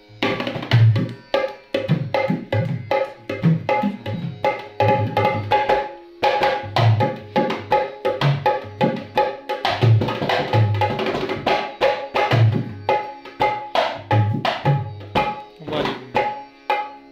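A dholak being played in a fast, steady rhythm. Deep bass strokes on the low head alternate with sharp, ringing slaps on the treble head, which holds a clear tuned pitch. The playing pauses briefly about six seconds in, then carries on.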